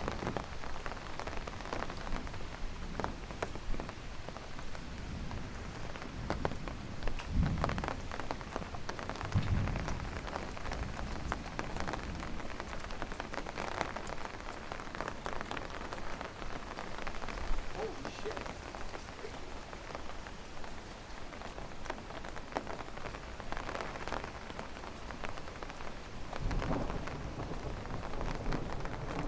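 Steady rain falling, with many close drops striking. Low rumbles of thunder swell up twice, about seven to ten seconds in and again near the end.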